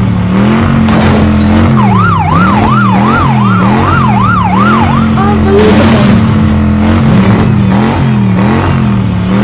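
Cartoon monster-truck engine sound effect, a steady drone whose pitch dips and rises about once a second, with a police siren warbling fast up and down for about three seconds starting about two seconds in.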